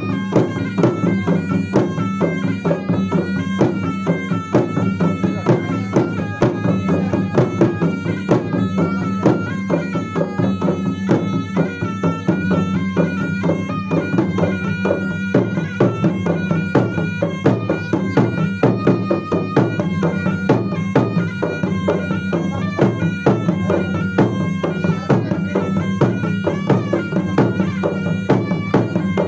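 Makassar gendang drums beating a fast, dense rhythm under a reed wind instrument playing a stepping melody over a steady held drone.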